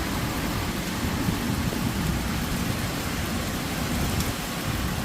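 Steady heavy rain from Hurricane Beryl, with a low rumble underneath.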